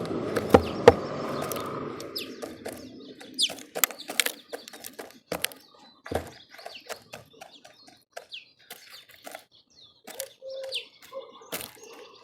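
Small birds at a feeder: a flurry of rustling wing flutter in the first couple of seconds, then scattered short chirps among many sharp taps and clicks.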